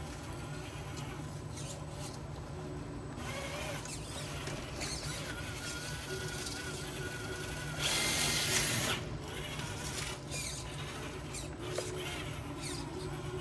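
Electric motor and drivetrain of a Traxxas TRX-4 RC rock crawler whining as it crawls over rocks, the pitch rising and falling with the throttle. A louder hissing burst comes about eight seconds in.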